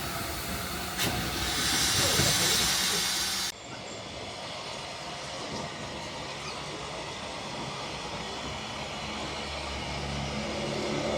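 Steam hissing loudly from a narrow-gauge steam locomotive, cutting off abruptly about three and a half seconds in. After that there is a quieter, mixed railway background.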